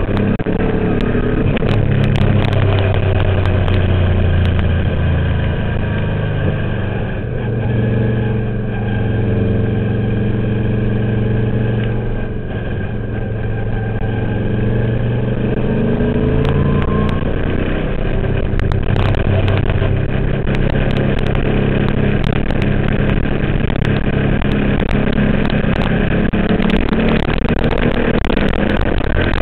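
Twin-turbo Subaru engine in a VW race car running hard on track, its pitch climbing and falling as the driver accelerates and shifts, easing off briefly twice (about 7 and 12 seconds in) before pulling hard again.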